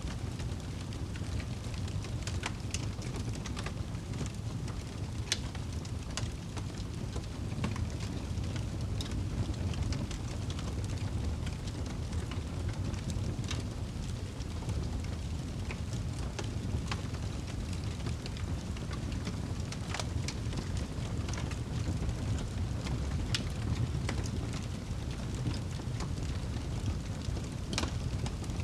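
Fireplace fire crackling: scattered sharp pops and snaps, a second or so apart, over a steady low rumble.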